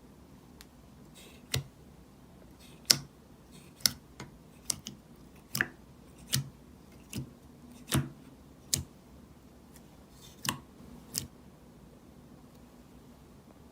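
Vanilla butter slime being handled, giving about a dozen sharp clicking pops at irregular intervals.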